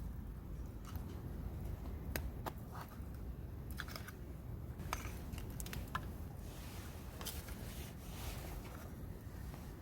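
Wood campfire crackling: scattered, irregular sharp pops over a steady low rumble.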